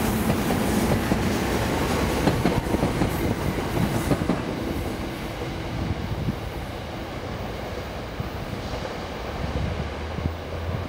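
SEPTA Silverliner IV electric commuter train rolling past and pulling away, its wheels clicking over the rail joints. The rumble and clatter drop off after about four or five seconds as the train moves into the distance.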